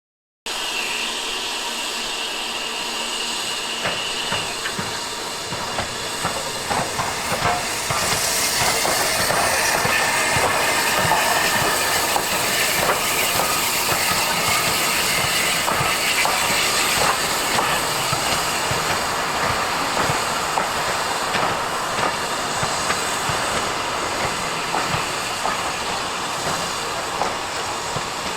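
Steam train running, with the hiss of steam and a clatter of wheel clicks on the rails; it starts abruptly and gets louder about eight seconds in.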